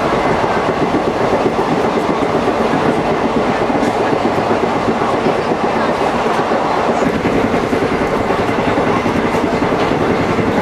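Indian Railways passenger train running on the rails: a steady, loud rumble and rattle of wheels and carriage with faint irregular knocks.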